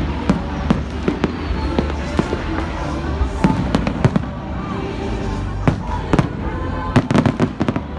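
Fireworks exploding: a string of sharp bangs and cracks, with a rapid cluster of bursts near the end, over music playing in the background.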